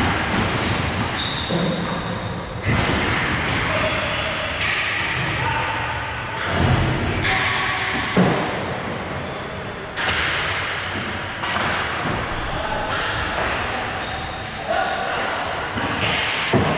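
Sounds of a ball hockey game in a large echoing hall: sharp knocks and thuds of the ball, sticks and boards every few seconds, over indistinct players' shouts.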